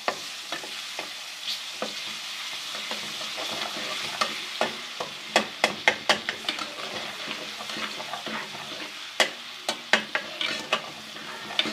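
Garlic-ginger paste sizzling as it fries in hot ghee in a karahi, stirred with a spoon that clicks and scrapes against the pan over a steady hiss.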